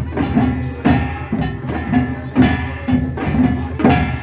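Korean traditional percussion ensemble playing a quick, driving rhythm of sharp drum and gong strikes with ringing metallic overtones.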